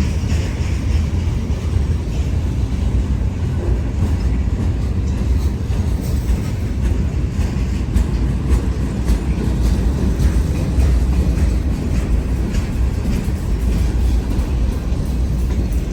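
Train passing at close range: a steady, loud low rumble of wheels on the rails, with faint clicks over the top.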